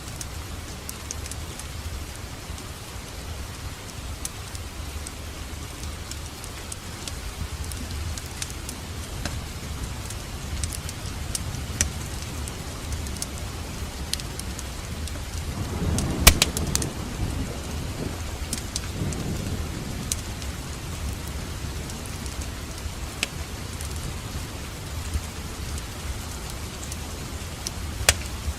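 Wood fire crackling in a fireplace: a steady low hiss and rumble with scattered sharp pops, and one louder pop with a brief low rush a little past halfway.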